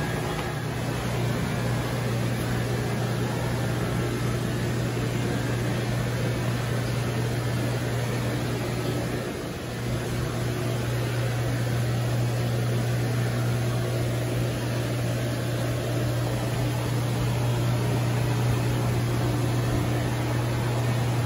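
A steady low mechanical hum over an even background rush, dipping briefly about nine seconds in.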